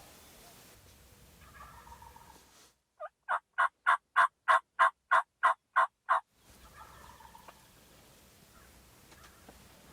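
A series of about eleven loud turkey yelps, roughly three a second, building in loudness over the first few notes. Before and after the yelps comes faint, distant turkey gobbling.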